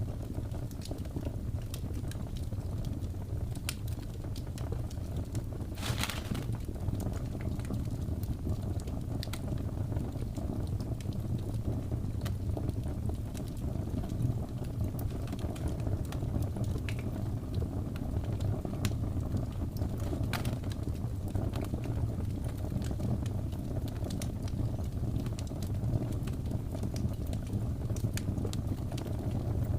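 Wood fire crackling in a fireplace: scattered sharp pops and snaps, one louder pop about six seconds in, over a steady low rumble.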